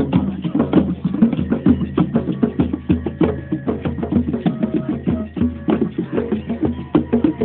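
A group of hand drums beaten together in a dense, uneven rhythm, many strikes overlapping.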